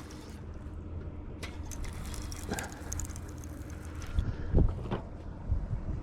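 Boat motor running steadily at trolling speed, with wind rumbling on the microphone and a few scattered knocks against the boat.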